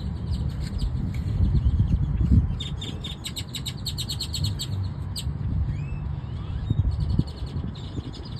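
Small birds chirping in quick runs of short, high notes, busiest in the middle and again near the end, over a steady low rumble.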